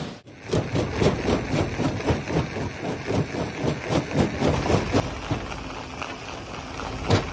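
An engine running with a quick, uneven chugging pulse, about three or four beats a second, that eases into a steadier, quieter run about five seconds in. One sharp click sounds near the end.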